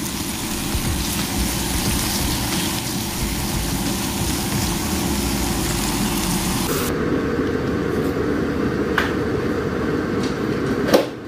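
Sliced red onions sizzling in oil in a frying pan. About seven seconds in, the high hiss cuts off suddenly, leaving a duller, lower noise, and a sharp click comes near the end.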